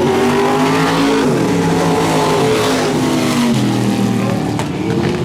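Several Eco Mod and Factory Stock race car engines running hard together as the pack laps the track, their pitches rising and falling as the drivers accelerate and lift.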